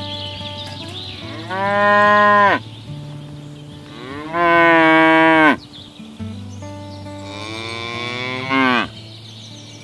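Cows mooing: three long moos a couple of seconds apart, the last one the longest, swelling near its end before cutting off.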